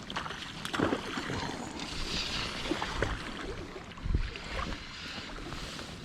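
Wind buffeting the microphone over a running stream, with a low thump of a stronger gust about one second in and again about four seconds in.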